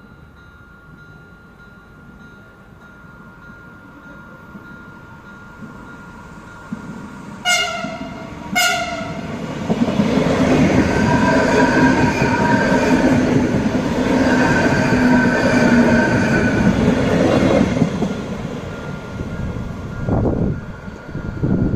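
Renfe Class 449 electric train gives two short horn blasts about seven and a half seconds in, then passes loudly with a rumble of wheels and a steady hum from its traction equipment, fading near the end. A steady level-crossing warning tone sounds under it.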